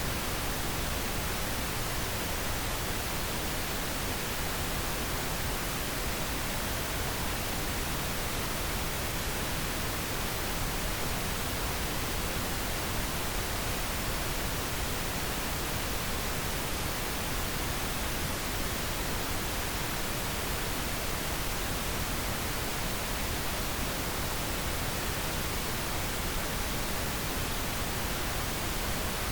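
Steady pink noise: an even, unchanging hiss across the whole range, used as a sleep aid.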